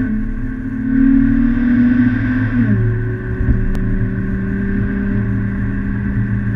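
Car engine heard from inside the cabin, pulling under acceleration with its note rising gently, then dropping sharply at an upshift about two and a half seconds in and running steady at the lower pitch.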